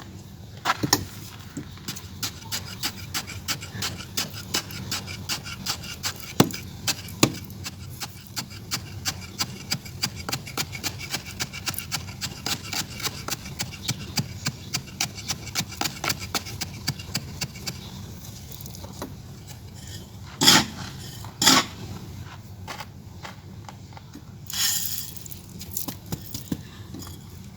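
Clay being worked into a pot shape with a tool or by hand: light, even scraping or tapping strokes, about three a second, then two louder knocks and a short rustle near the end.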